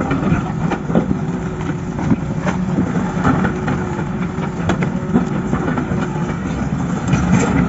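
Heavy construction machinery engine running steadily, with scattered knocks and clatter on top.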